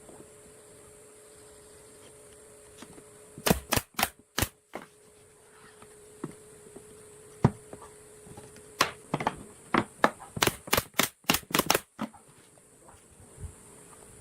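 A series of sharp knocks: three in quick succession about four seconds in, a few single ones, then a fast run of about six near eleven seconds. A faint steady hum sits under them and stops about nine seconds in.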